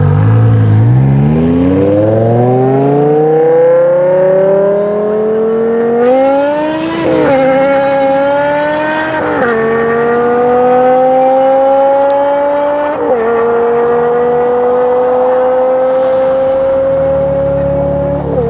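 BMW M5 E60's V10 with an Eisenmann race exhaust accelerating hard at full throttle from a rolling start. Its note climbs steeply, then rises steadily through each gear, with a quick drop in pitch at each of four upshifts.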